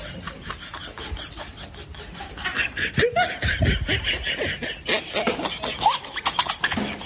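People laughing in short snickering bursts, louder from about two and a half seconds in.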